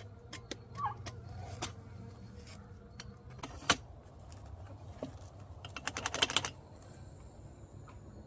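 Clicks and light knocks from handling the oxalic acid vaporizer as it is reloaded, with one sharp click a little under four seconds in and a quick rattling run of clicks lasting under a second around six seconds in, over a low steady hum.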